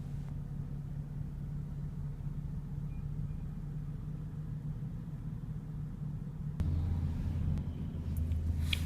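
Steady low hum in the cabin of a 2014 BMW 435i coupe. About two-thirds of the way in, a deeper hum joins it and it gets a little louder.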